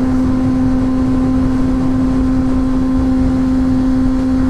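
2006 Honda CBR600's inline-four engine running at a steady, high-pitched cruising speed, with wind rumbling on the helmet-mounted microphone.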